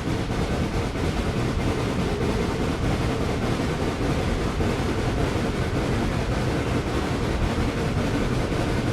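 Steady rumble of a moving train running on the rails, with no clear beat or separate knocks.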